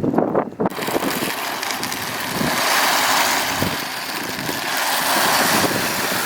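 Steady rushing of wind over the microphone, starting suddenly about a second in.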